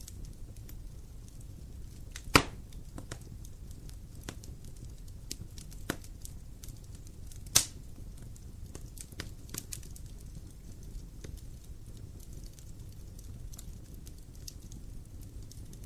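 Wood fire burning with a low steady rumble and scattered crackles, with two loud pops of the burning wood, one a couple of seconds in and another about halfway, and a smaller snap between them.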